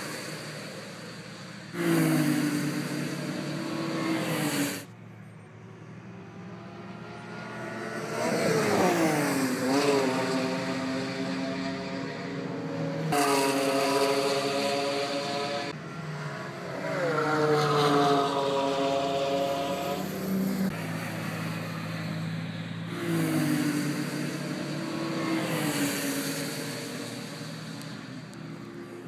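Car engines driven hard on a track, accelerating with rising engine notes and passing by with falling ones. The sound changes abruptly several times, jumping from one pass to the next.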